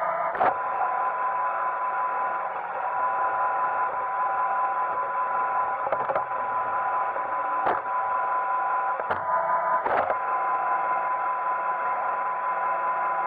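iRobot Roomba 880 robot vacuum running, a steady motor whine over the whir of its brushes and suction, with a handful of short sharp knocks scattered through.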